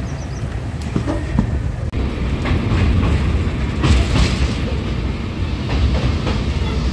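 Deccan Express passenger train running along the line: a steady rumble from the coaches with irregular clacks of the wheels over rail joints.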